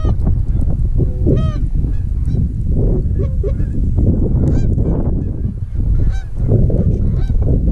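Repeated goose honks over heavy wind noise on the microphone.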